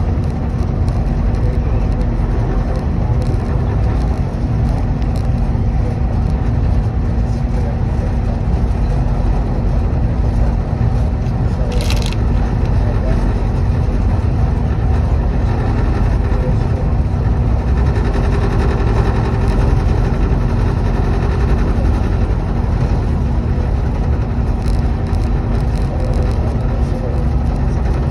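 Steady low rumble of a passenger train, with a faint hum and a brief hiss about twelve seconds in.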